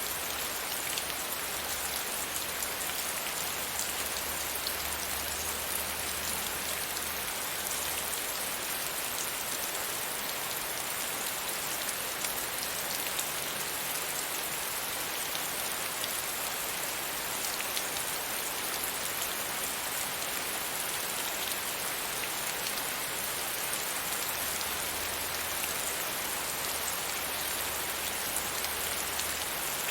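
Steady rain falling, a constant hiss with many fine drop ticks on a surface.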